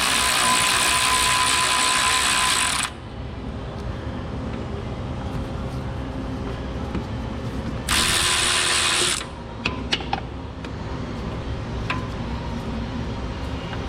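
Power tool running on a suspension control-arm bolt in two bursts, one about three seconds long and a shorter one of about a second near the middle, followed by a few sharp metal clicks.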